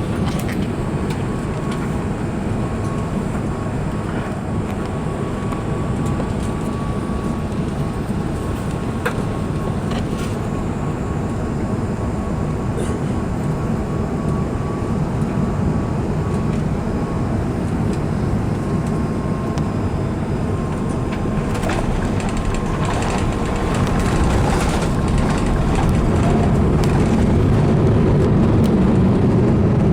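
Cabin noise inside an Airbus A380-800 airliner: a steady low rumble with a faint thin whine over it for most of the time, the rumble growing louder about 24 seconds in.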